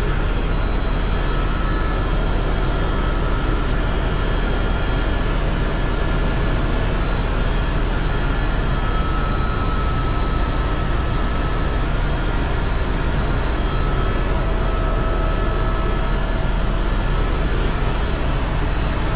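Helicopter in flight: a steady, loud drone of engine and rotor with a few faint steady tones above it.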